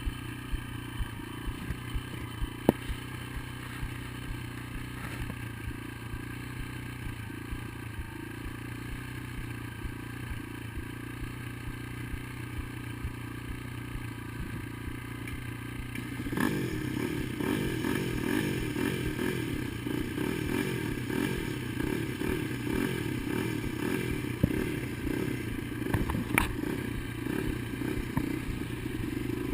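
Dirt bike engine running at a steady low note with scattered clicks and knocks. About halfway through it gets louder and its pitch rises and falls as the bike is ridden under throttle.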